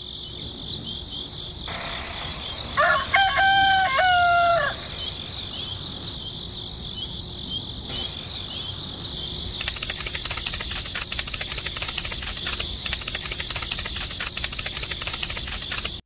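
A rooster crows once, about three seconds in, over steady high chirping country ambience. From about ten seconds a fast, dense ticking joins the chirping.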